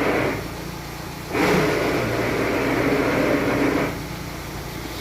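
Volkswagen Amarok's engine idling, with a strange noise from the clutch area that comes in while the clutch pedal is pressed. The noise stops just after the start, returns about a second and a half in for over two seconds, then drops away. The noise was later traced to a worn pilot bearing at the end of the crankshaft.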